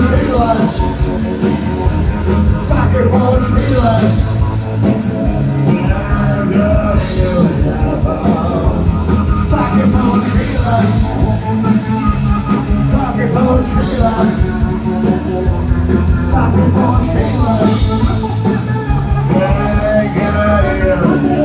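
Rock band playing live and loud, with a singing voice over the instruments.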